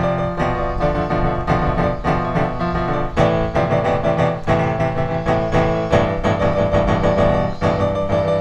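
Background piano music with a steady flow of notes and chord changes.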